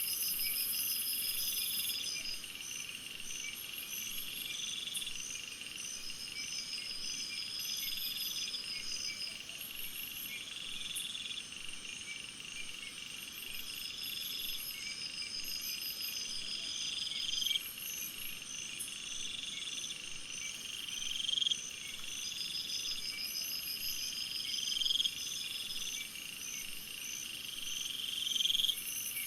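Chorus of crickets and other calling insects: several steady pulsing trills at different pitches, with a rising buzz that repeats about every four seconds.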